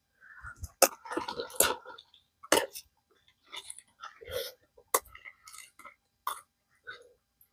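Collard green leaves being harvested off the plants: several sharp snaps with leafy rustling between them.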